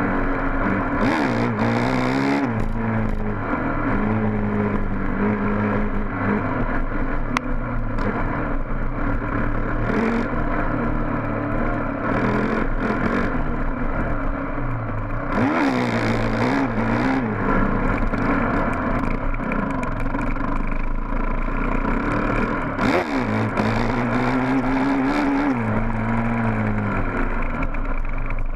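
Honda dirt bike engine revving up and down as it is ridden along a trail, its pitch climbing and dropping over and over, with a few short bursts of rushing noise.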